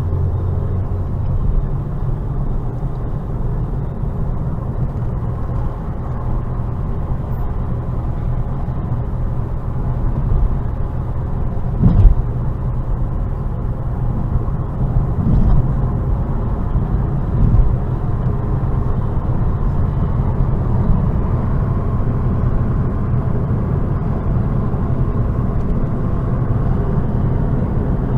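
Steady engine and road noise of a car being driven, heard from inside the car, with a sharp thump about twelve seconds in and a couple of lighter knocks a few seconds later.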